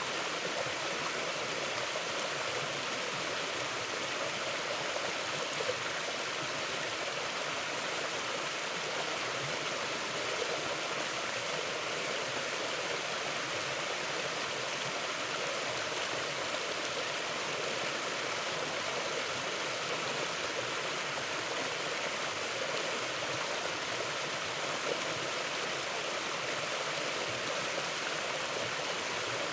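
Mountain river flowing, a steady even rush of water.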